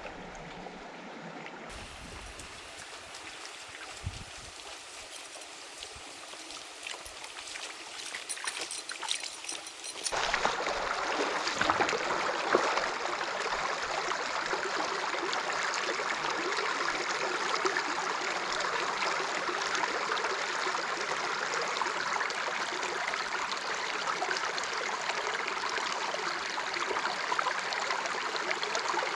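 Stream water flowing, a steady rushing; it jumps suddenly louder and fuller about ten seconds in, then holds steady.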